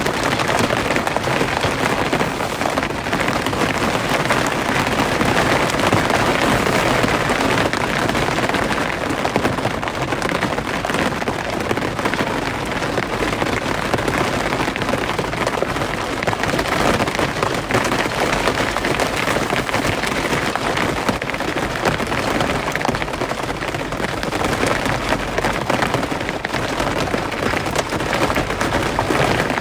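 Rain falling steadily, a dense, even patter of drops with no breaks or single loud impacts.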